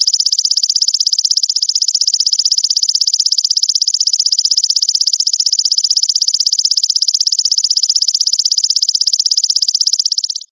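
Belalang mas insect calling: a loud, high-pitched, rapidly pulsing buzz-trill held steady without a break, cutting off suddenly at the very end.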